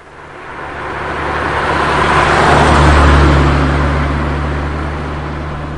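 A motor vehicle driving past: its engine hum and tyre noise swell to a peak about three seconds in, then fade away.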